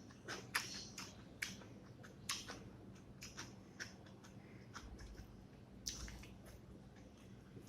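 Close-up eating sounds of rice with fish curry: wet chewing and mouth smacks, heard as irregular short clicks.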